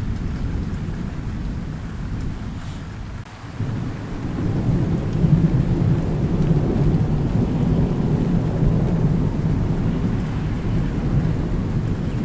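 Thunder rumbling over steady rain; after a brief lull about three seconds in, a deep roll of thunder swells up and keeps rolling.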